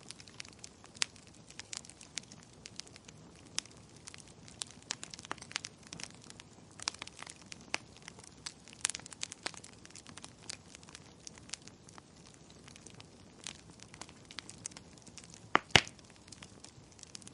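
Wood fire crackling, with irregular sharp pops and snaps over a faint steady hiss, and two loud pops close together near the end.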